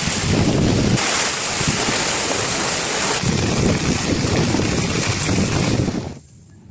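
Heavy rain pouring down with wind: a loud, dense hiss full of fine patter. The sound changes abruptly about a second in and again around three seconds, then drops away sharply just after six seconds.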